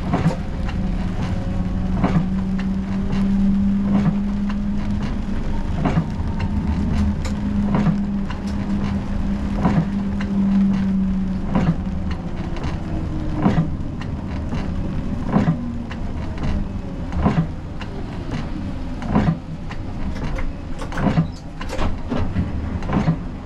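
Siemens Combino tram heard from the driver's cab: a steady hum that stops about halfway through, then a faint rising whine. Short knocks and clicks come every second or two throughout.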